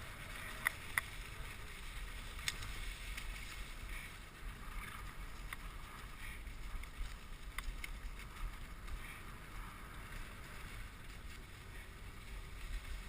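Dog sled runners hissing steadily over a snow trail behind a four-dog Siberian husky team, with a few light clicks in the first seconds.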